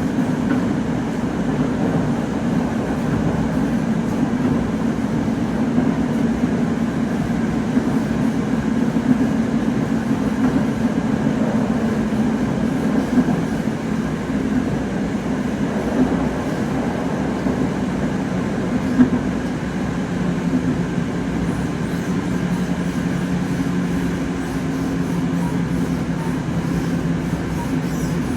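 Moscow Metro train running between stations, a steady rumble and hum of the car in motion. Its low tone drops slightly in pitch near the end.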